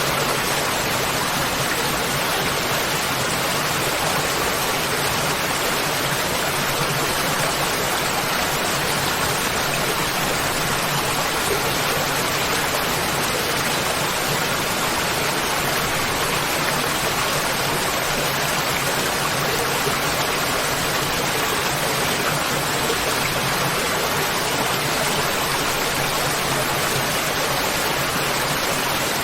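Waterfall: falling water crashing in a steady, even rush that does not change.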